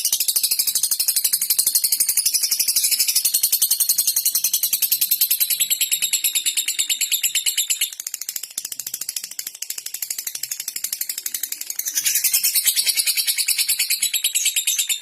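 Lovebird in its 'ngetik' typing chatter: a fast, even run of high clicking chirps, softer for a few seconds in the middle. This chatter is the kind played as a lure to set other lovebirds singing.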